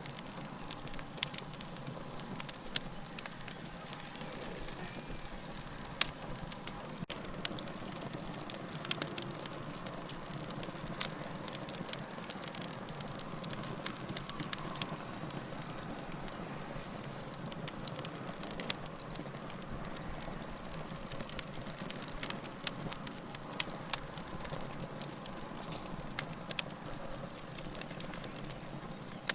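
Wood fire crackling: a steady low hiss with frequent sharp, irregular pops and snaps.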